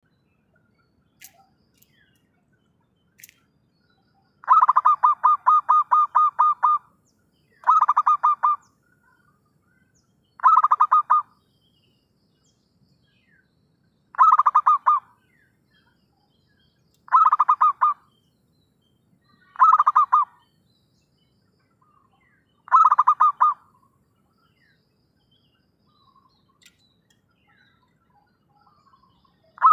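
Zebra dove cooing in bouts of rapid staccato coos. There are seven bouts, each one to two seconds long and about three seconds apart, beginning about four seconds in.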